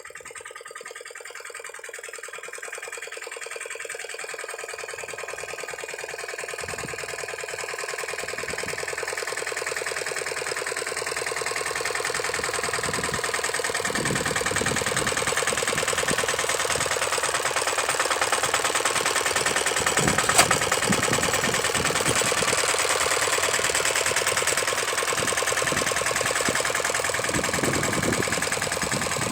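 Lombardini diesel engine of a walk-behind tractor running steadily with a fast, even clatter, growing louder over the first fifteen seconds or so and then holding level. A single sharp click about two-thirds of the way through.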